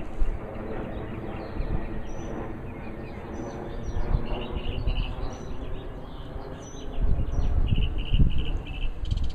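Small birds chirping in short, quick repeated notes, one run of three and later a run of four. A low rumbling noise runs beneath them and grows louder in the last couple of seconds.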